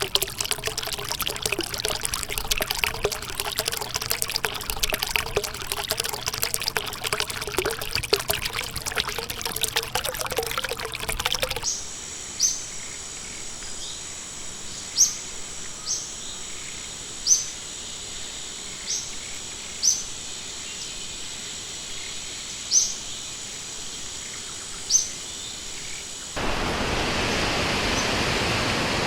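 Water trickling and splashing. About twelve seconds in it cuts to a quieter stretch with a short, high, upswept bird chirp every couple of seconds. Near the end it cuts again, to a steady rushing hiss of running water.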